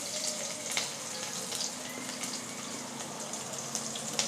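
Chopped capsicum, ginger and garlic sizzling in hot oil in a kadai, a steady frying hiss with a few sharp clicks of a spatula against the pan.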